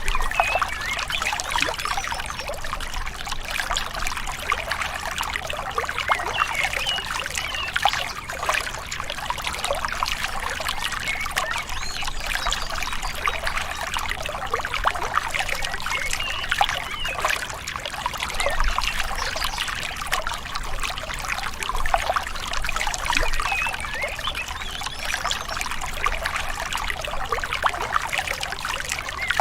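Small river flowing gently over shallow stones, a steady babbling and trickling of water with small gurgles.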